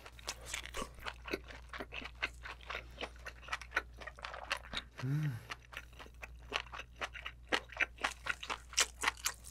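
Close-miked chewing of a mouthful of braised giant abalone with bean sprouts and warty sea squirt: many crisp, wet crunches and mouth clicks, with a short hummed "mm" about five seconds in.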